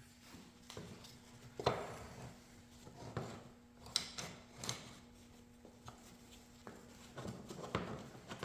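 Irregular knocks and clatters of wooden pieces being handled and set down on a hard surface, the loudest about a second and a half in and again about four seconds in.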